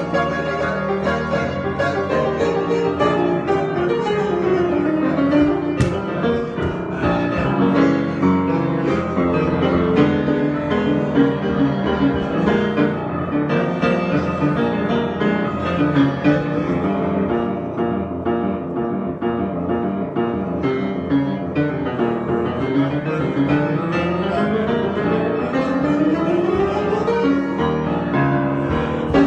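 Solo piano improvisation: a continuous, dense flow of notes, with a descending scale run about four seconds in and rising runs near the end.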